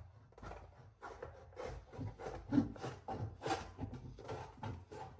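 Hand snips cutting a length of galvanized sheet metal duct stock, each closing of the blades giving a short scraping crunch, about two cuts a second.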